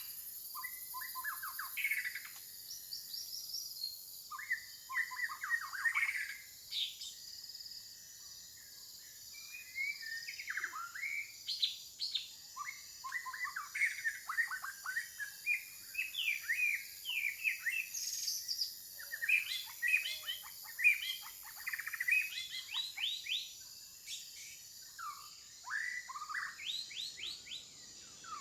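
Rainforest birds chirping, in quick runs of short, rapid notes that come in clusters with brief pauses, over a faint steady high hiss.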